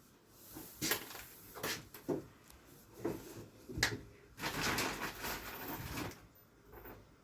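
Wooden ceiling battens being handled and fitted: about five sharp wooden knocks, then about two seconds of steadier grinding noise.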